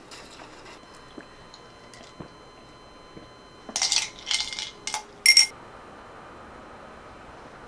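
Kitchenware clinking: four short, sharp clinks between about a third and two-thirds of the way in, the last one ringing briefly, over a quiet room background.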